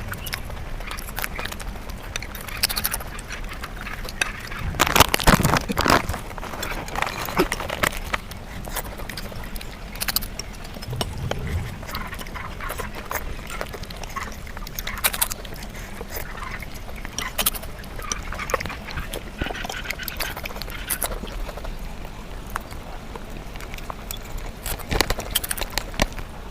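Close-miked eating sounds sped up about five times: chewing and mouth noises turned into rapid, irregular clicks and smacks, with louder bursts about five seconds in and again near the end.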